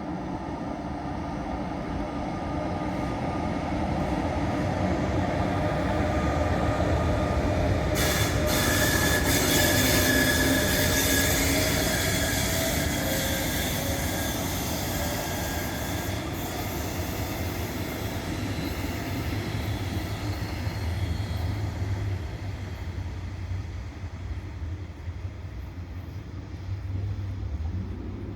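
A train passing, its running noise swelling to a peak about ten seconds in and then slowly fading. A high-pitched squeal from the wheels sets in suddenly about eight seconds in.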